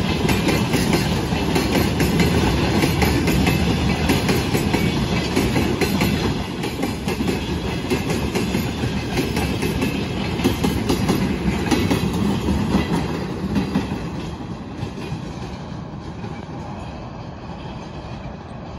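Freight train of rail tank cars rolling past close by, the wheels clattering over the rail joints. From about fourteen seconds in, the sound fades as the last cars go by and the train moves away.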